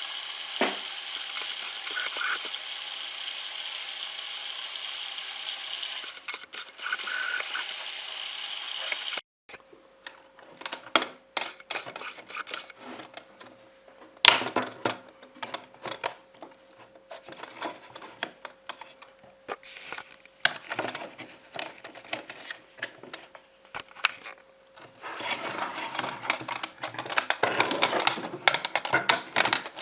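A steady hiss for about nine seconds, then many small hard clicks and rattles, like plastic toy parts being handled and knocked together, busier again near the end.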